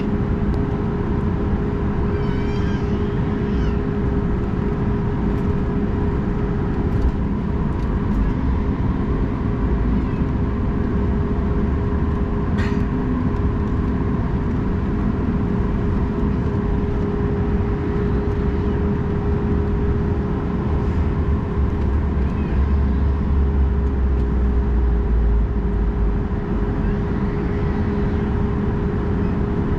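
Cabin noise inside a Boeing 737 MAX 8 on the ground before takeoff: the CFM LEAP-1B engines and cabin systems give a steady hum with a constant tone, and a low rumble grows heavier for several seconds about two-thirds of the way through.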